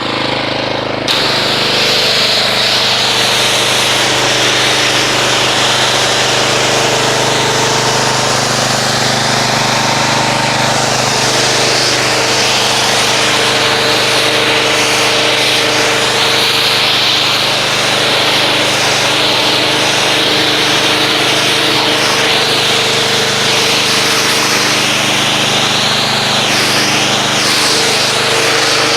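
Pressure washer running and spraying, a steady motor hum under the hiss of the water jet, rinsing dried car-wash foam off the paint. It starts about a second in and then holds steady.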